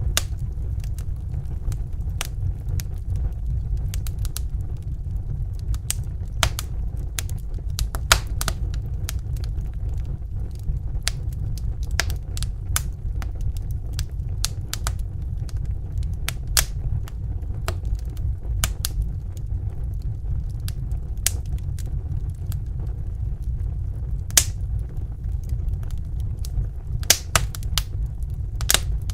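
Wood fire burning in a fireplace: a steady low rumble of the flames with sharp crackles and pops at irregular times, a few louder snaps among them.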